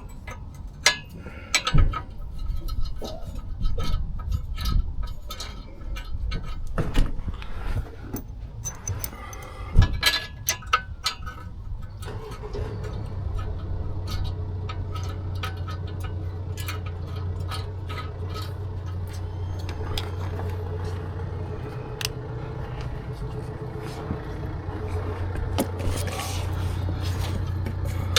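Scattered knocks and clatter of tools and metal parts being handled, then from about twelve seconds in a steady low hum.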